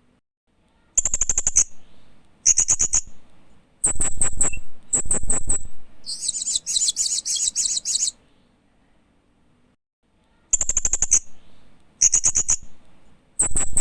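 Hanging parrot (Loriculus) chirping: bursts of quick, very high-pitched chirps, each a short string of notes, with a longer, denser burst about six seconds in and a pause of about two seconds before the chirping resumes.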